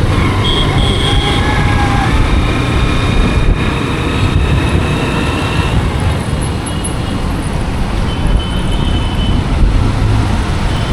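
Road and traffic noise heard from a moving motorcycle: a loud, steady rumble of engine and road noise with other vehicles around.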